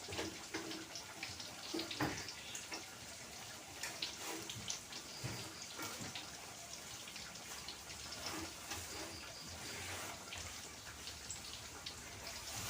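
Water running at a kitchen sink, with scattered clinks and knocks of things being handled in it.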